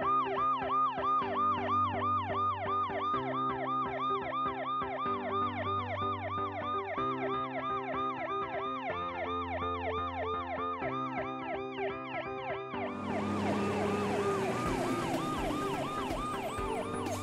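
Police car siren in fast yelp mode: a quick rising-and-falling wail that repeats about three or four times a second. About thirteen seconds in, a broad rushing noise joins it and the siren grows fainter.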